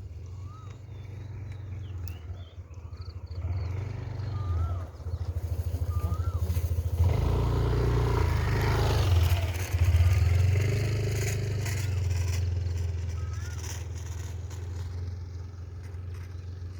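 A motor vehicle's engine hum that grows louder about halfway through and then eases off, like a vehicle passing by, with short high chirps now and then.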